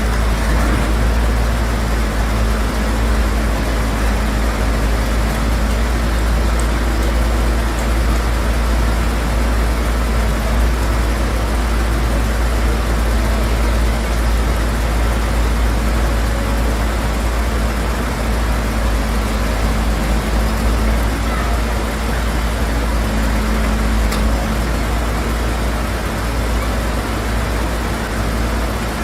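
A vehicle engine running with a steady low rumble that hardly changes.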